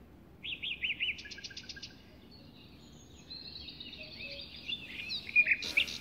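Small birds chirping and twittering: quick repeated chirps that start about half a second in and build into a denser, louder chatter toward the end.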